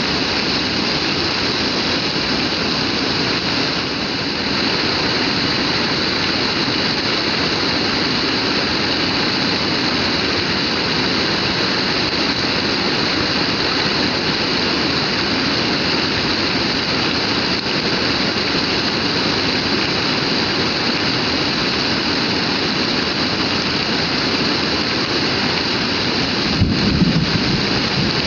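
Heavy rain pouring down in a steady, dense hiss. A brief low rumble rises near the end.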